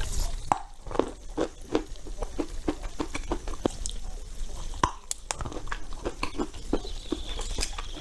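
Edible clay being bitten and chewed close to the microphone: a steady run of crisp crunches, about two or three a second.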